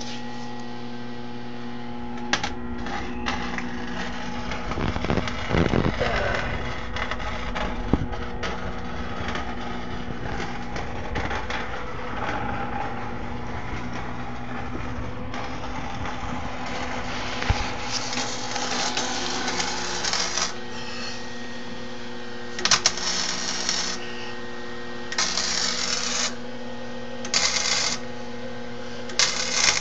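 Arc welder crackling in several short bursts of a second or two each, most of them in the second half, over a steady electrical hum.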